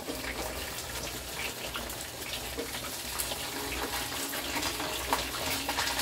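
Chicken back frying in hot oil in a skillet: a steady sizzle with frequent small crackles and pops, mixed with a pot of water at a rolling boil.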